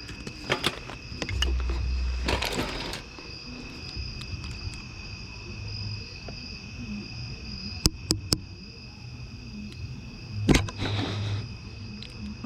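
Small items being handled and sorted through in a dumpster: scattered clicks, knocks and rustling, with a few sharper knocks about eight and ten seconds in. A steady high-pitched whine runs underneath.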